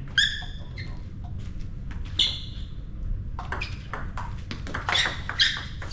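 Table tennis rally: the ball cracks off the bats and bounces on the table with a sharp, ringing ping, several hits spread over a few seconds, the loudest just after the start, about two seconds in, and twice close together near the end.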